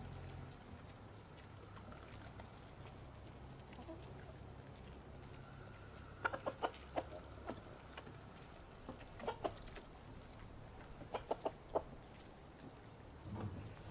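Hens clucking in a chicken coop: after a quiet few seconds, short runs of quick clucks come in clusters, several times, over a low background hum that fades early on.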